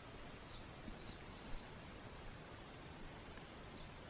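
Faint steady background hiss with several short, high bird chirps scattered through it, and one soft knock about a second and a half in.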